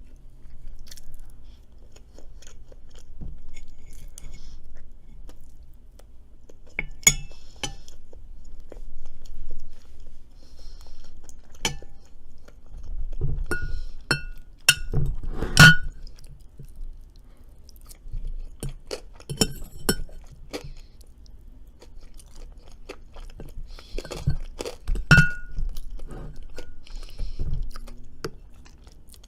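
A person chewing food close to the microphone, with a number of sharp clinks of cutlery on tableware that ring briefly. The clinks come in clusters about halfway through and again near the end.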